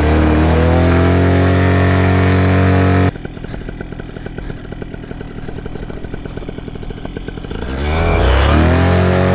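Paramotor engine and propeller on a ground run-up: revved up to a high, steady run, then dropping suddenly to idle about three seconds in, and revved up again near the end.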